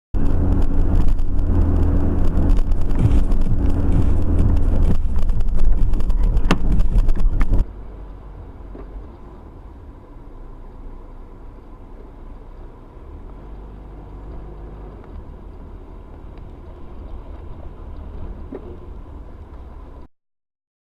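Car on the road picked up by a dashcam: loud low engine and road rumble, with a couple of sharp knocks about six and a half and seven seconds in. The sound then cuts off abruptly to a much quieter steady hum.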